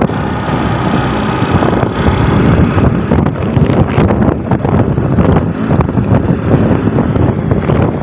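JCB backhoe loader's diesel engine running, with wind buffeting the microphone in short irregular gusts from about three seconds in.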